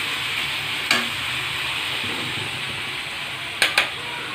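Chicken and onion paste sizzling in a pan while being stirred, with the spatula knocking against the pan about a second in and twice in quick succession near the end.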